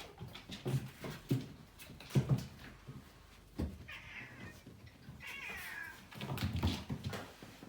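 A house cat meowing twice, two short high calls about halfway through, with soft low thumps before and after.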